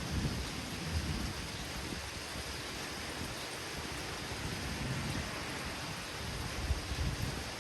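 Steady hiss of heavy rain during a thunderstorm, with irregular low rumbles swelling underneath, strongest near the start and again toward the end.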